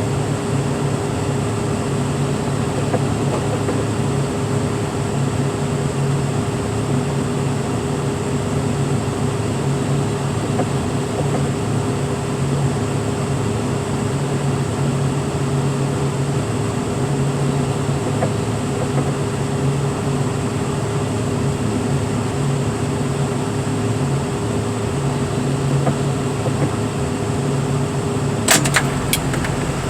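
Engine of heavy equipment running steadily with an even drone, with a few sharp clicks near the end.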